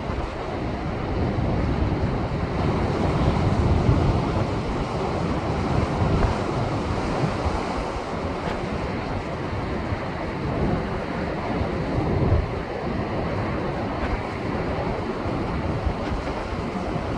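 Rough Pacific surf left by a passing typhoon, waves surging and breaking over shore rocks in a continuous wash. It swells louder about four seconds in and again about twelve seconds in, with wind buffeting the microphone.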